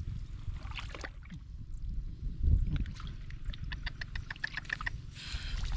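Sloshing and splashing in shallow muddy water over a steady low rumble, with a quick run of clicks, about ten a second, lasting about a second and a half past the middle.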